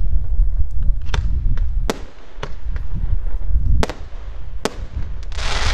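Aerial fireworks display: four sharp bangs over a deep rumble that eases after about two seconds, with a short hiss near the end.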